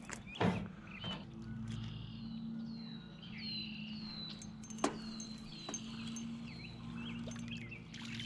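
Songbirds calling: a short falling chirp repeated about twice a second, over a steady low hum, with a sharp click a little under five seconds in.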